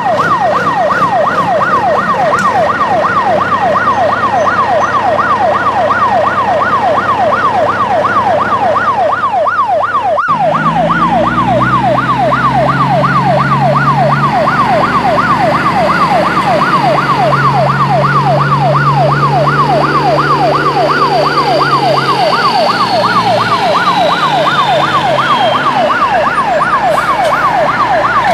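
Electronic ambulance siren, a toy-style wail sweeping rapidly up and down several times a second without a break. About ten seconds in, a lower steady drone with a slow rising and falling tone joins it.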